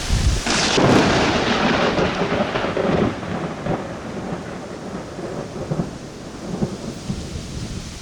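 A thunderclap about half a second in, rumbling and dying away over the next few seconds, over the steady hiss of heavy rain.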